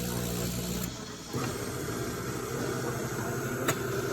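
De'Longhi Magnifica Start espresso machine running: a steady hum that stops about a second in, then after a short pause a different mechanical sound starts with a steady whine, with a couple of sharp clicks.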